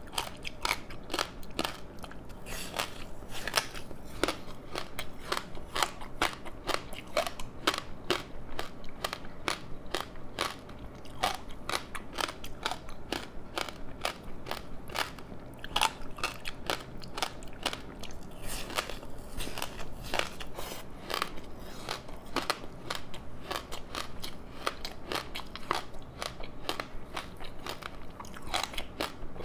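Close-up chewing and crunching of a crispy seaweed-wrapped rice snack: a dense run of crackles and crunches from the dry seaweed, several a second, with bites among them.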